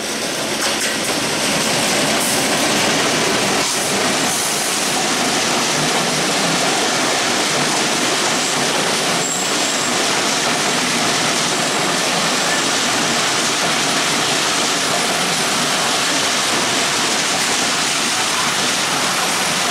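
A diesel-hauled intercity express train passing close by on the adjacent track: the locomotive, then a long line of coaches, making a steady, loud noise of wheels and carriages running over the rails. The noise builds over the first couple of seconds as the locomotive comes alongside, then holds.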